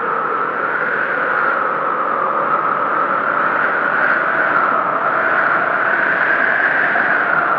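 Blizzard wind howling: a steady rush of noise with a whistling howl that slowly rises and falls in pitch.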